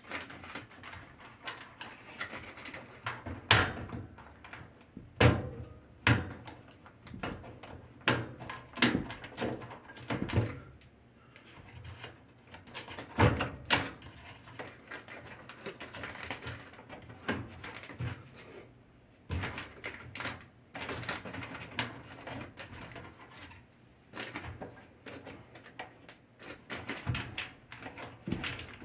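Irregular knocks, clicks and scrapes of hands and tools working on a washing machine's cabinet during reassembly, with a few louder knocks.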